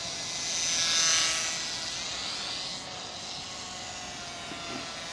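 Small electric RC plane (WLToys F949 Cessna-182) flying overhead: the whine of its brushed electric motor and propeller swells as it passes close about a second in, then fades and drops slightly in pitch as it moves away.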